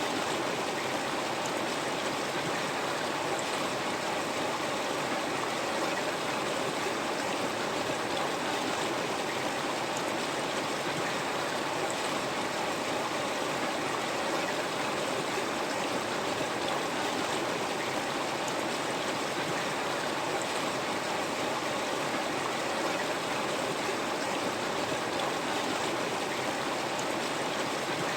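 River water flowing, a steady rushing and burbling.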